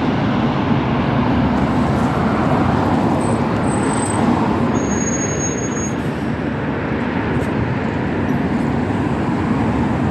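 LiAZ 6213.65 articulated city bus running along its route, a steady engine and road-noise rumble. Two brief, faint high whistles come near the middle.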